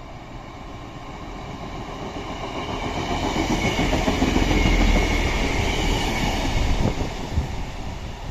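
A train passing on the line, growing louder to a peak about halfway through and then easing slightly.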